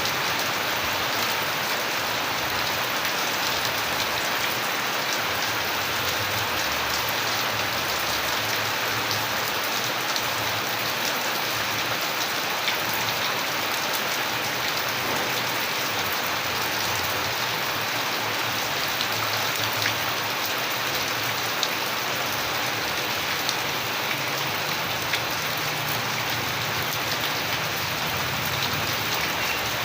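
Steady rain falling on surfaces as a constant, even hiss. A few sharper individual drop hits stand out now and then.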